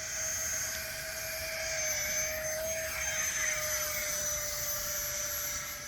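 E-flite Habu STS RC jet's electric ducted fan whining at high throttle on a fast pass. The steady whine swells just as it starts and holds.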